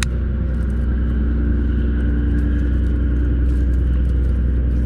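A steady low rumble with a constant hum underneath, unchanging throughout, and a few faint ticks over it.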